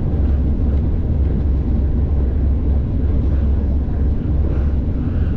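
Steady low rumble of a train running, heard from aboard.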